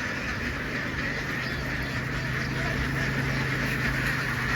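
A large flock of ducks quacking together in a dense, steady din. A steady low hum runs underneath from about a second and a half in.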